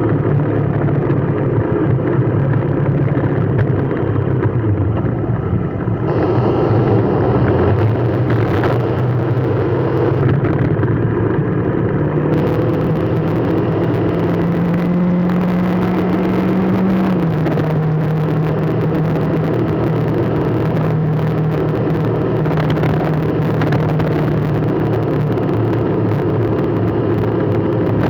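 A vehicle engine running with a steady low hum whose pitch steps up and down now and then. A high hiss joins about twelve seconds in.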